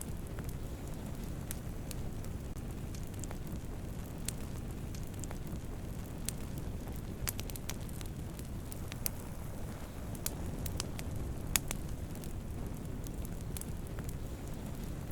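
Wood fire burning, crackling: a steady low rush of flame with scattered sharp pops and snaps at irregular moments, one louder pop about two-thirds of the way through.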